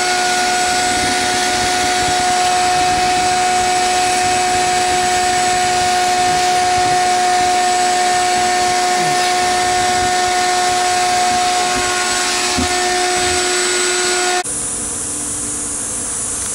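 A small electric motor running steadily with a constant whine. It cuts off abruptly about two seconds before the end, leaving a quieter hum of bees.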